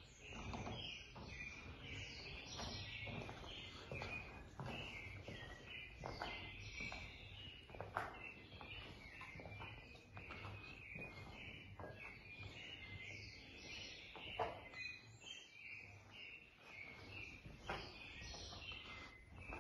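Faint birds chirping continually, with a few soft knocks now and then.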